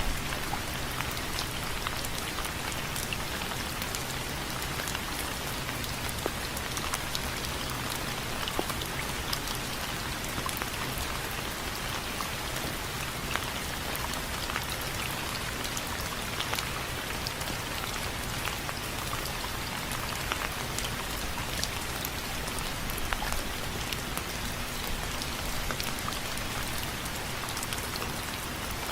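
Steady rain with many separate drops tapping sharply on window frames.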